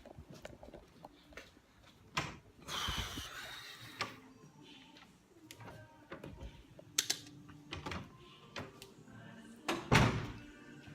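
Scattered knocks and thuds, with a short rushing noise about three seconds in and the loudest knock near the end.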